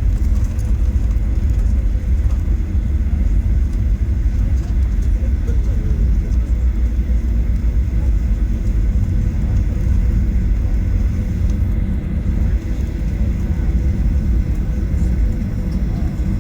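Steady low rumble inside the cabin of a Boeing 737-800 rolling on the ground after landing, its CFM56 turbofans running.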